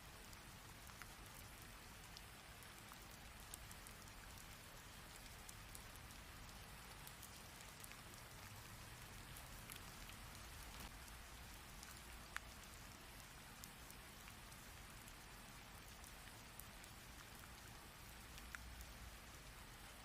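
Rain falling steadily, a faint even hiss with scattered individual drops striking close by, one sharper drop hit about twelve seconds in.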